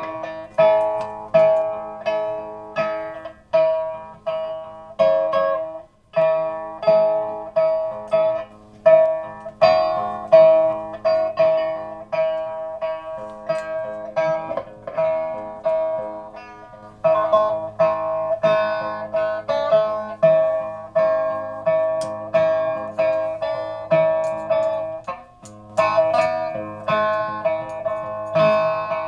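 Music played on a plucked string instrument: single notes and short figures plucked about once or twice a second, each ringing and dying away.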